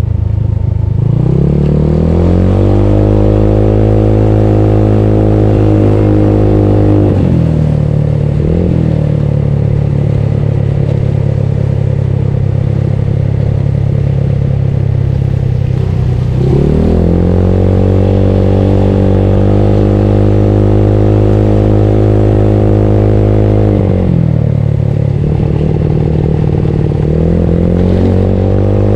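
Bored-out Yamaha Mio automatic scooter's single-cylinder engine under way. Its revs climb quickly and then hold steady as the belt drive takes up speed. Twice they fall back when the throttle is eased off, and they start climbing again near the end.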